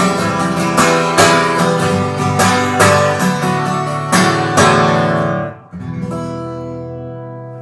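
Acoustic guitar strummed in a steady rhythm as the song's closing bars, then a final chord just before six seconds in that rings on and slowly fades.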